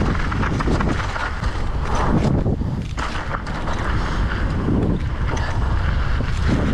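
Strong wind buffeting the microphone in a steady low rumble, with scattered small knocks and rattles.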